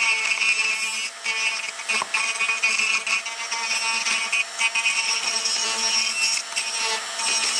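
Electric power tool running steadily with a constant whine and a rough scraping noise, working on the rusted metal of an old manual coffee grinder.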